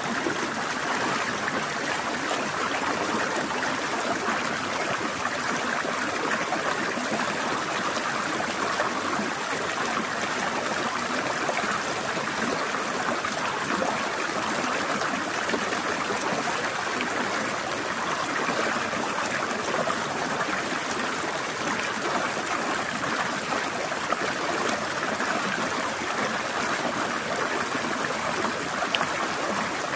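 Forest stream flowing and trickling over rocks: a steady, even water noise with no pauses.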